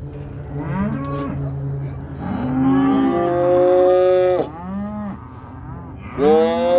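Cattle mooing and bawling, several calls overlapping at different pitches, with one long drawn-out moo in the middle.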